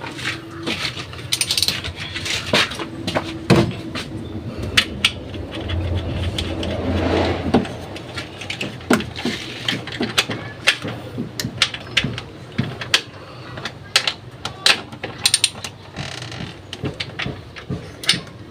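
Irregular metallic clicks, clinks and knocks of hand tools and parts being handled during fuel pump work, over a steady low hum.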